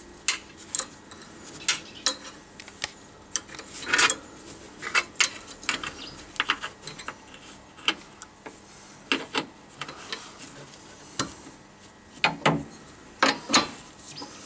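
Hand tools working on metal: irregular sharp clicks and clinks, with a few louder knocks about four seconds in and again near the end.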